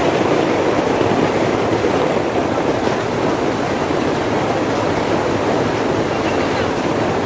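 Steady rushing noise of a moving train, mixed with strong wind on the microphone.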